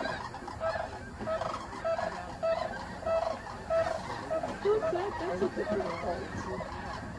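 A flock of snow geese honking: short, nasal calls repeated again and again, overlapping, with a lower wavering call for a second or so in the middle.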